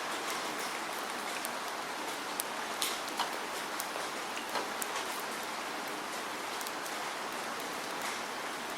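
Steady rain falling, an even hiss with scattered close drops landing sharply on a surface.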